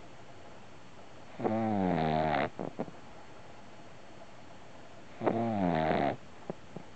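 Boston terrier puppy snoring: two pitched snores about four seconds apart, each lasting about a second and followed by a couple of soft clicks.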